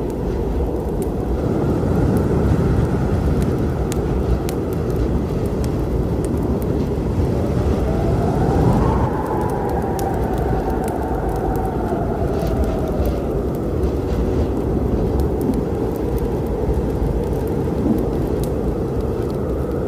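Thunderstorm with a steady deep rumble, layered with the sharp, scattered crackles of a wood fire. A wavering whistle rises and fades through the middle.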